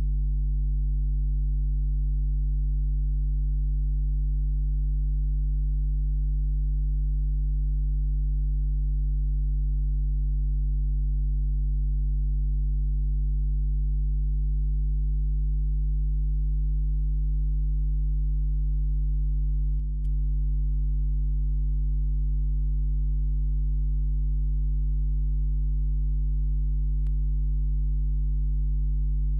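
Steady electrical mains hum, a low 50 Hz buzz with its overtones, unchanging throughout, with a faint click about 20 seconds in and another near 27 seconds. No engine or other sound from the filmed scene is heard; this is the kind of hum typical of a silent 8 mm film transfer.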